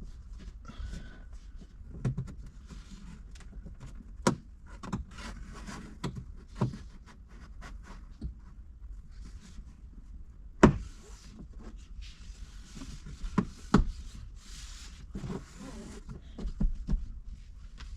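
Hands working a dash-cam cable and the rubber pinch-weld door seal along a car's headliner edge: rubbing and rustling with scattered clicks and knocks. One sharp knock about ten and a half seconds in is the loudest.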